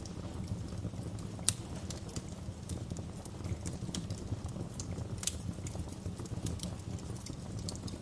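Wood fire crackling: a steady low rumble of flames with irregular small crackles and two louder pops, about a second and a half in and again about five seconds in.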